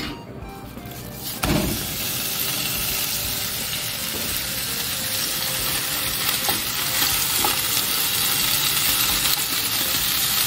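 Cut cabbage dropped into a hot oiled frying pan about a second and a half in, setting off a sudden sizzle that then runs on steadily as it fries.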